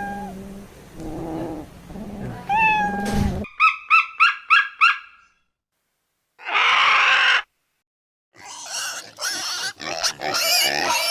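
A cat meows twice, then a quick run of about six high chirps, a short harsh noisy call after a gap, and from about eight seconds a string of rough grunting and squealing pig calls.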